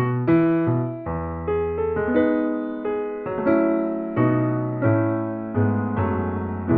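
Background music: piano or electric piano playing chords and a melody, each note struck and left to decay.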